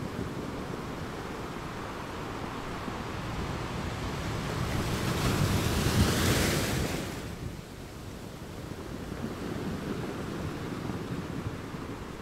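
Sea waves breaking on the shore, with one wave building to a loud hissing break about halfway through and then washing back down. A low rumble of wind on the microphone runs underneath.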